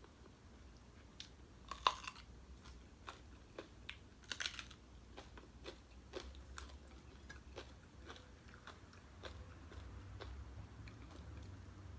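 Close-up chewing and biting of food, with scattered crisp clicks and crunches, a sharper crack about 2 s in and a quick cluster of crunches around the middle.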